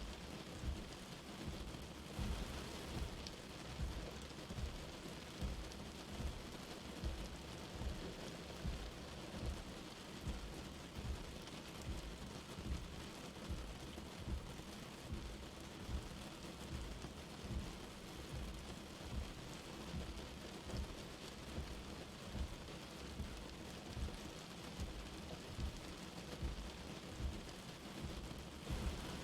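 Light rain falling steadily, with soft low thumps about once a second.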